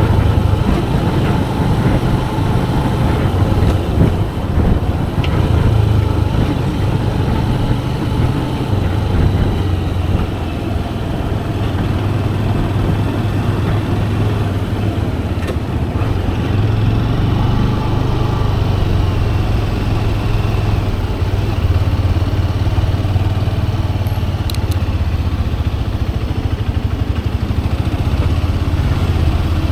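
Manual-gearbox motorcycle engine running steadily under way, a low, even engine hum with small rises and falls in revs.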